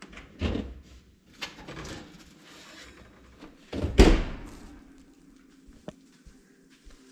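A run of separate knocks and clatters, the loudest a heavy thump about four seconds in.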